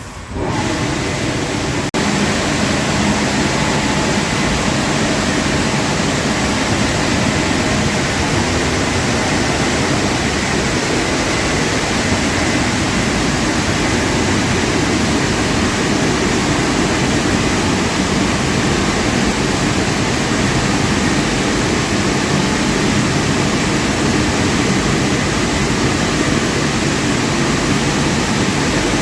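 Automatic car wash machinery running: a loud, steady rushing noise that starts suddenly and steps up louder about two seconds in.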